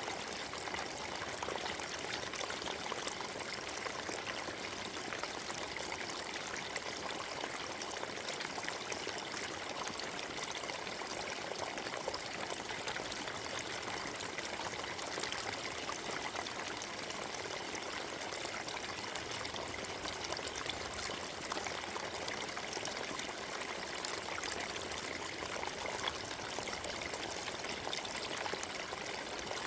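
Forest stream flowing and splashing over stones, a steady rushing burble with small trickling flickers.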